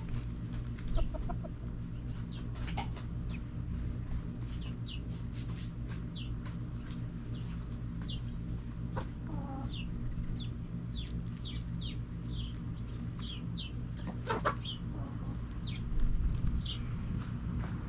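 Backyard chickens clucking now and then, with many short, high, falling chirps throughout and a steady low hum underneath.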